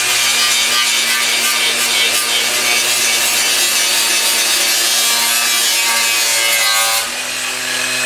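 Cordless angle grinder with a disc cutting and grinding rusted sheet steel, a harsh steady whine with a hiss. It eases briefly about seven seconds in as the load changes, then picks back up.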